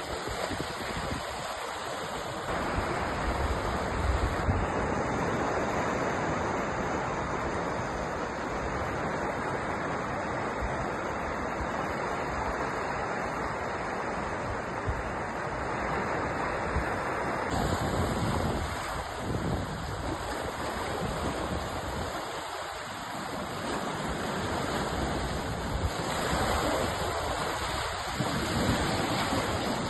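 Sea surf: a continuous rush of waves breaking and washing, swelling and easing slowly.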